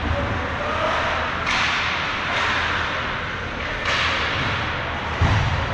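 Ice hockey play in an arena: two sharp scraping hisses of skate blades on the ice, about two seconds apart, then a loud thud near the end.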